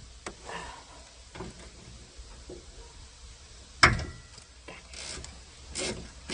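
Hand tools working on a car door's hinge bolts: scattered light clicks and scrapes, with one sharp metallic clank just under four seconds in and a few short scraping sounds after it.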